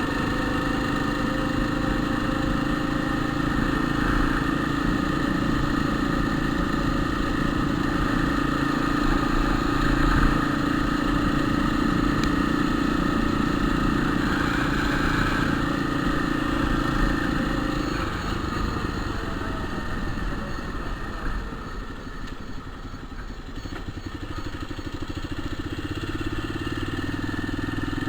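Motorcycle engine running on the move with a steady drone. It eases off and drops in pitch about eighteen seconds in, then picks up again near the end. The rider hears it growling in third gear and takes it for a bad gearbox bearing.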